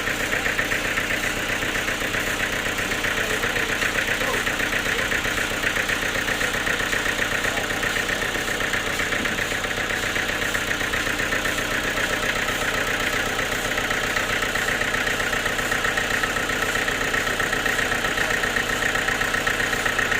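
Sawmill machinery running steadily, a continuous engine-like drone with a fast, even pulsing and no breaks.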